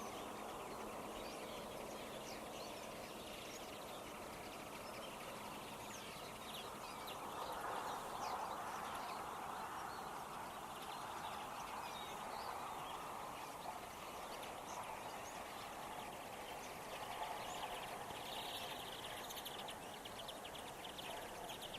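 A flock of common linnets and European greenfinches singing together in many short, overlapping chirps and twitters, over a steady background noise. The twittering thickens into a rapid run about two-thirds of the way through.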